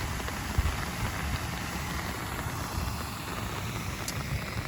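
Wind buffeting the microphone: an uneven low rumble with a faint steady hiss over it.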